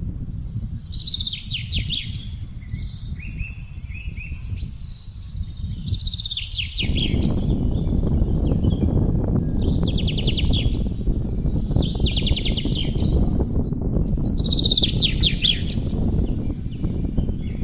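Songbirds singing short, fast trilled phrases every two or three seconds over a steady rush of wind. The wind gets suddenly louder about seven seconds in.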